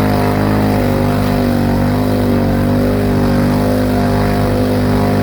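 ATV engine running at steady, fairly high revs, a continuous drone with only slight wavering in pitch.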